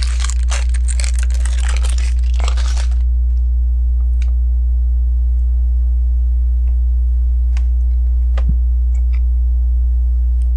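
A small plastic Lego parts bag crinkling and rustling as it is handled for about three seconds. After that come a few light clicks of plastic pieces, over a steady low electrical hum that runs throughout.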